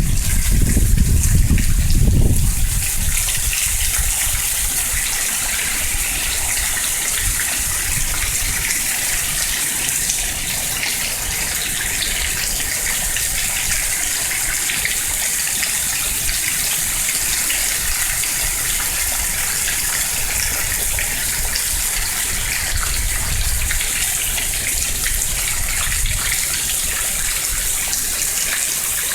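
Steady downpour of rain, a dense even rush of falling and running water. Gusts of wind rumble on the microphone for the first couple of seconds.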